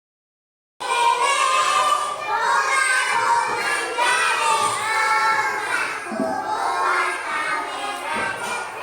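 A group of children's voices, many talking, calling out or singing at once, cutting in abruptly from silence about a second in.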